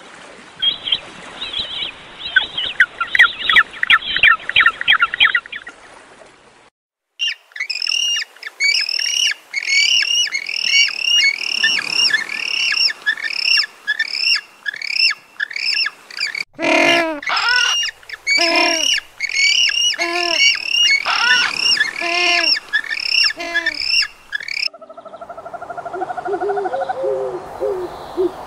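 Calls of several different birds one after another: a rapid run of short calls, then a long series of repeated calls that each rise and fall in pitch, and from near the end a lower, repeated hooting call.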